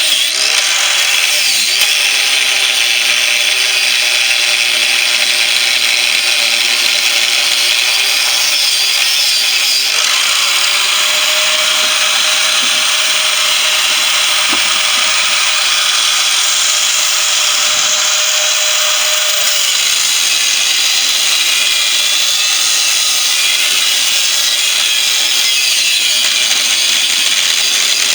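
Corded angle grinder cutting through the steel shell of a refrigerator compressor, a continuous harsh grinding whose motor pitch shifts as the load on the disc changes.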